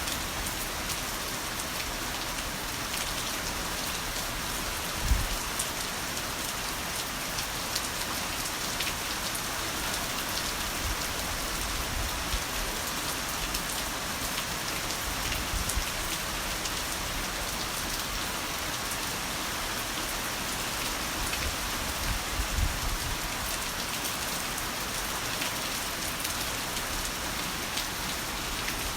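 Heavy rain falling steadily, an even dense hiss of drops on surfaces, with a brief low thump about five seconds in and another a little past twenty seconds.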